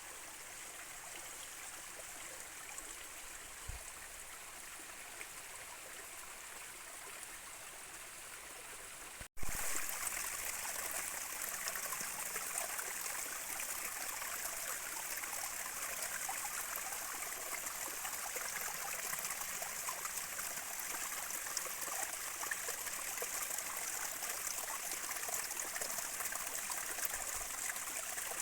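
Running water of a stream or creek, a steady rushing. It breaks off for an instant about nine seconds in and comes back louder and brighter.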